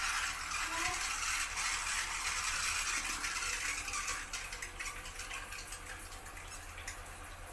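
Water spraying steadily from a shower head fed by an instant electric water heater, slowly getting quieter in the second half.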